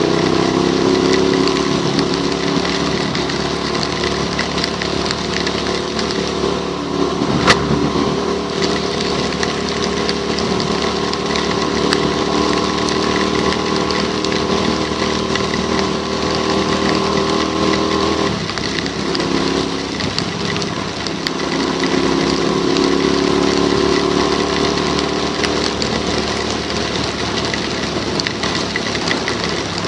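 Motorcycle engine running steadily while riding on a wet road, over a constant hiss of rain and water spray. One sharp click comes about a third of the way in, and the engine note drops around the middle before picking back up.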